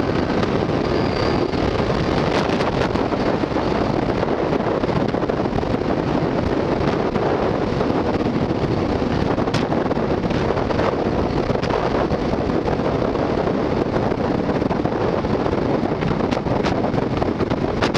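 Steady wind buffeting the microphone, a dense rumbling noise without pitch, with faint traffic or engine noise mixed in.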